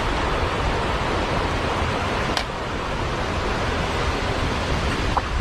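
Steady rushing of river water, with a brief click about two and a half seconds in.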